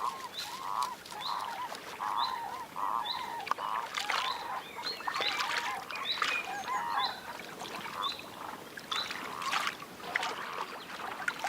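Great crested grebes calling at the nest: a run of short, repeated calls about two a second, busiest in the middle, with a few brief splashy noises.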